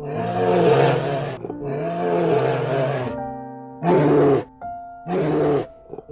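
A bear growling four times, two long growls and then two shorter ones, over a light background music tune.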